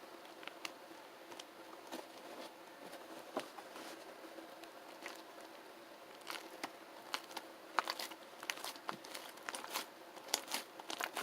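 Clear slime mixed with shaving foam being squeezed and stretched by hand, giving quick wet clicks and crackles of popping air bubbles. They come sparsely at first and thicker and louder in the second half, over a faint steady hum.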